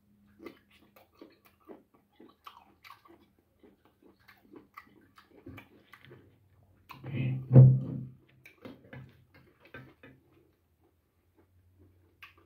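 A man chewing and biting into boiled goat head meat by hand: irregular wet smacks and clicks of mouth and lips, with a louder moment about seven seconds in.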